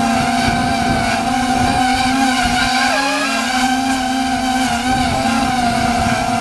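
Quadcopter's brushless motors (1806 2400kv) and 5-inch props whining steadily, the pitch wavering and dipping briefly about halfway through as the flight controller corrects against gusts, with wind buffeting the microphone.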